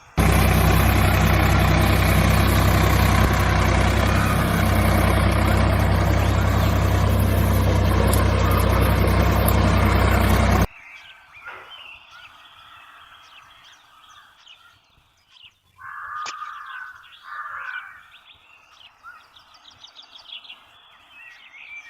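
A small machine runs loud and steady with a low hum, then cuts off abruptly about halfway through. Birds chirp in the quieter part that follows.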